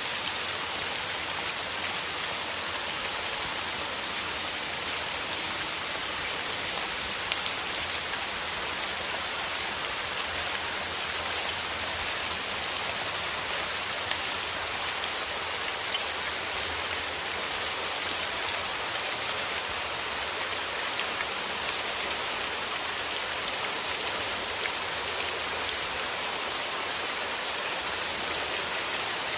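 Steady rain falling, an even hiss with scattered light ticks of individual drops.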